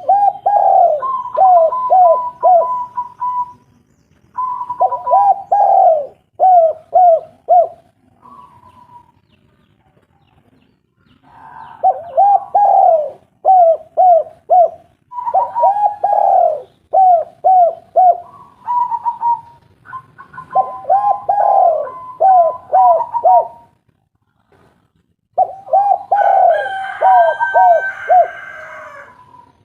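Spotted dove (tekukur) cooing: about six calling phrases, each a quick run of repeated coos, separated by short pauses, with a second, higher-pitched voice overlapping at times.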